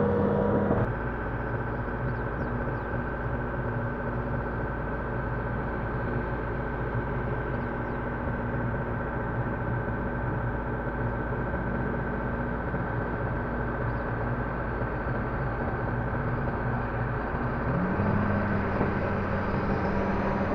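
Hydraulic excavator's diesel engine running steadily, dropping back about a second in and picking up again, its note rising slightly, near the end.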